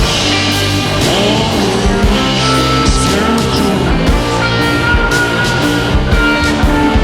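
Rock band playing an instrumental passage of a song, guitar to the fore, over a steady beat of sharp hits.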